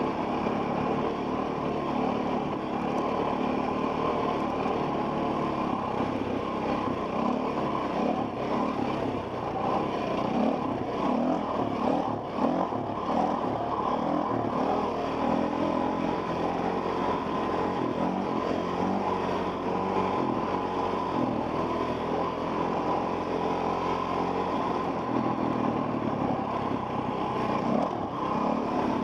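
Enduro dirt bike engine running continuously on a trail, rising and falling with the throttle, heard from a helmet-mounted camera. A brief dip in the engine sound about twelve seconds in.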